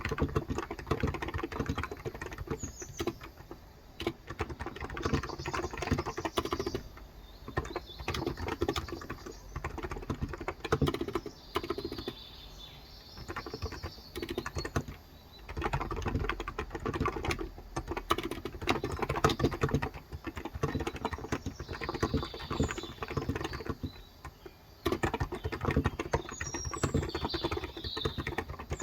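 Typing on a Cox Endeavor electro-capacitive (non-contact) keyboard with light 35 g switches: fast runs of keystrokes broken by short pauses. Birds chirp faintly in the background now and then.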